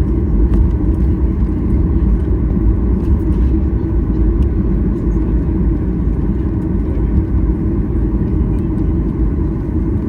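Steady low rumble of a Boeing 737-800 heard from inside the cabin: the hum of its CFM56 jet engines mixed with the rush of air past the fuselage.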